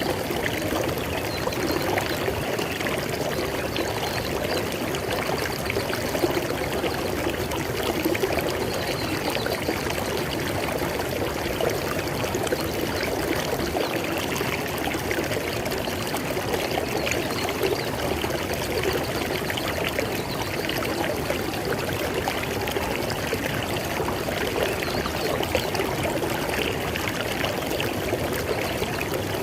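River water flowing: a steady, even rush of moving water with fine splashing and trickling, unchanging throughout.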